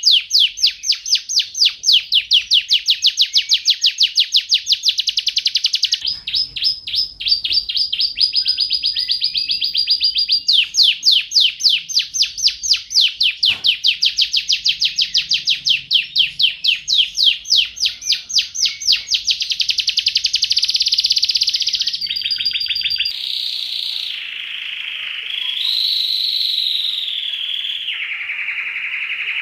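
Domestic canary singing: long tours of rapidly repeated notes, each held for a few seconds before switching to the next. About three quarters of the way through it changes into a continuous lower rolling warble that rises and falls in pitch.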